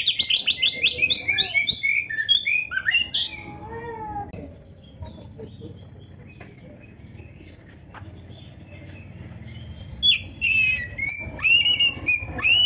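Oriental magpie-robin (kacer) singing a varied song of rapid trills and whistled phrases. It goes quiet from about four seconds in, then takes up loud phrases again near the end.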